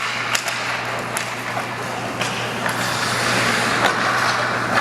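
Ice hockey rink during play: a steady scraping hiss of skates on the ice, growing louder a few seconds in, with several sharp clacks of sticks and puck over a steady low hum.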